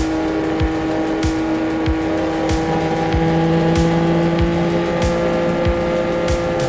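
CF Moto 675SS's inline-three engine running at a steady cruising speed, its exhaust note holding one pitch that creeps slightly higher. Wind rushes underneath, and a soft low thump repeats about every two-thirds of a second.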